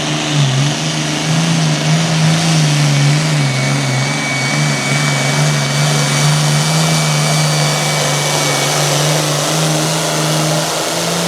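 An International 806 super stock pulling tractor's engine runs hard under full load down the track, its pitch wavering up and down at first and then holding steady. A thin high whine runs through the middle of the pull, and the engine drops off near the end.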